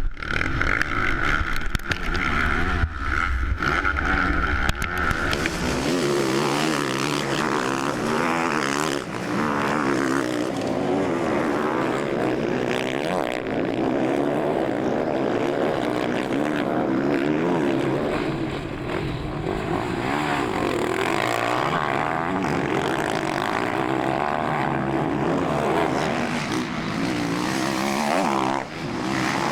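Motocross bike engines racing, several at once, their pitch rising and falling as riders rev through the gears; a steady high tone and deep rumble run for the first five seconds or so before the revving takes over.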